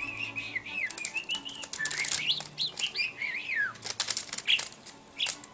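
Budgerigar chirping and warbling, a run of quick wavering notes that rise and fall in pitch over the first few seconds. Several short, sharp rustling clicks come in the second half.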